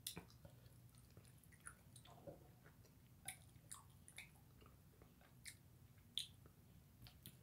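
Faint, close-up chewing and mouth sounds of a person eating with chopsticks: scattered soft smacks and clicks, the sharpest about six seconds in, over a faint low hum.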